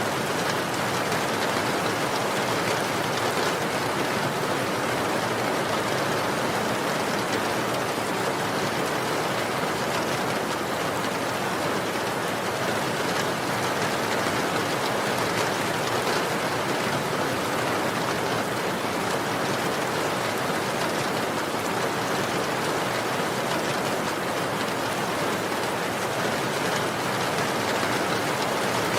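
Steady heavy rain falling, a dense even hiss with fine patter of drops on surfaces.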